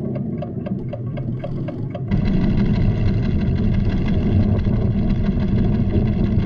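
Regular ticking of a monitoring instrument, about four ticks a second, over a low rumble of the volcano's tremors that builds beneath it; about two seconds in the ticking gives way to a sudden, loud, steady rumble as the tremor strengthens.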